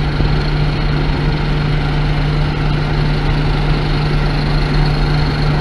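DON-1500 combine harvester running steadily with a constant low hum, its threshing gear and auger turning with the sieves open to blow out dust and chaff.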